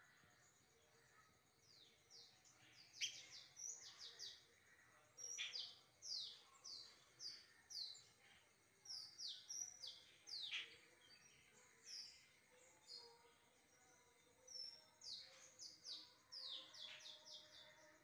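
Birds chirping: short, sharp calls that sweep downward, given in quick clusters of several notes with brief pauses between, starting about two seconds in.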